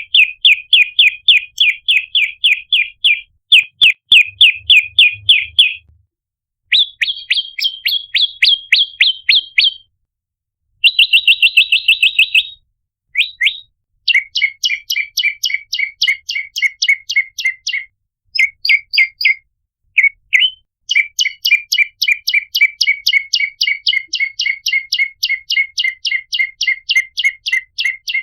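Prenjak lumut (a small Indonesian songbird) calling: rapid series of sharp chip notes, about five a second, in bursts of a few seconds separated by short pauses, with a faster, buzzier trill about halfway through. This is the kind of call played as a lure to draw in other prenjak.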